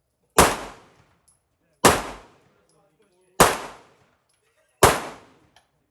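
Four pistol shots fired one at a time in slow, deliberate fire, about a second and a half apart, each trailing off in a short echo.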